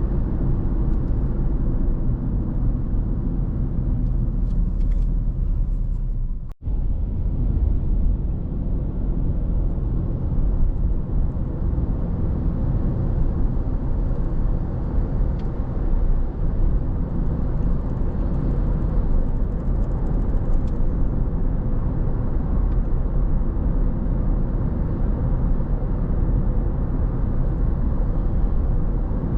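Car driving on the road: steady low rumble of tyre, road and engine noise. The sound cuts out for a split second about six and a half seconds in, then resumes.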